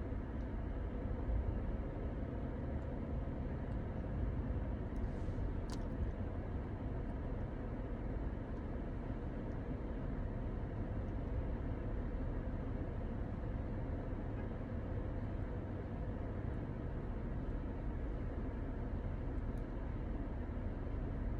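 Steady low rumble of a car running, with a faint even hum and a single sharp click about six seconds in.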